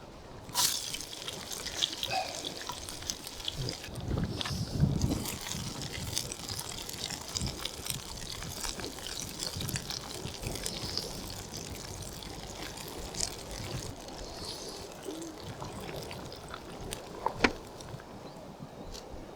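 Water trickling and sloshing, with scattered small clicks and knocks and one sharper click near the end.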